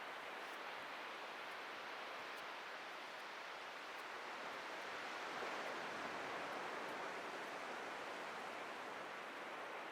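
Atlantic surf washing onto a beach: a steady rush of breaking waves that swells a little about halfway through, then eases.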